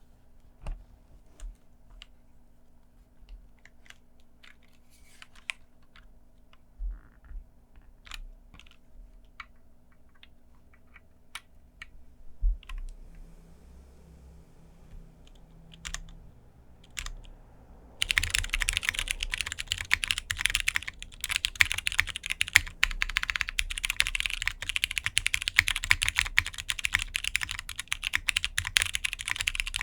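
Mechanical keyboard with broken-in Cherry MX Brown tactile switches on 60 g springs with films, under GMK keycaps: separate single keystrokes for about the first two-thirds, then fast continuous typing, much louder. The owner finds these Browns sound thin.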